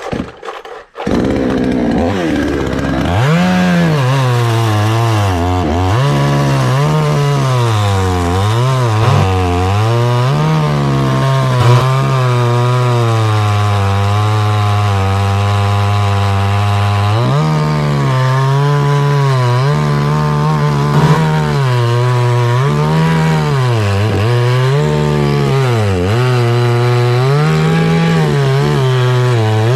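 Chainsaw coming in about a second in and running at high revs through the cut in an anjili trunk, its pitch dipping and recovering again and again as the chain bogs under load in the wood.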